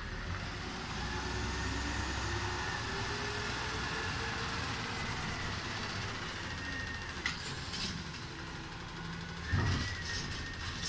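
Recycling truck's engine running, its pitch rising steadily over the first several seconds, with a short clank about seven seconds in and a louder knock near the end.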